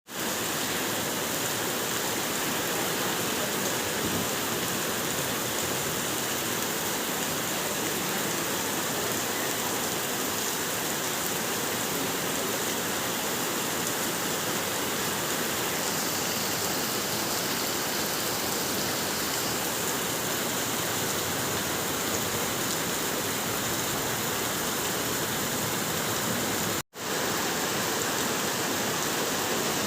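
Heavy rain falling in a dense, steady hiss, broken once by a momentary silence near the end.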